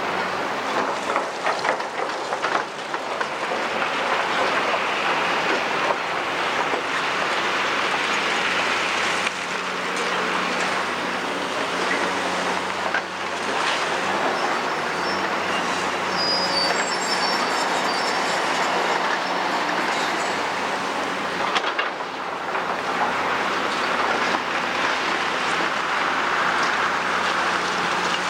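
Caterpillar 345D tracked excavator working a pile of demolition rubble: its diesel engine runs steadily under a dense clatter and scraping of debris, with brief high metallic squeals around the middle.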